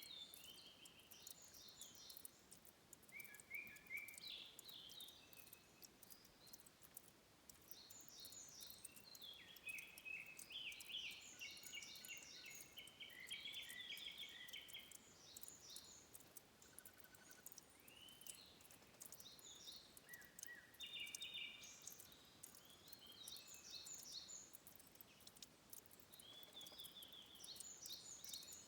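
Forest songbirds singing short phrases of quick repeated notes, several songs overlapping and coming again and again, over a faint trickle of water at a stream's source.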